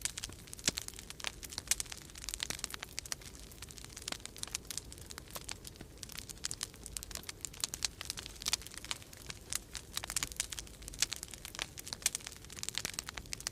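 Wood fire crackling in a fireplace: a dense, irregular run of sharp pops and snaps over a faint hiss, with a steady low rumble beneath.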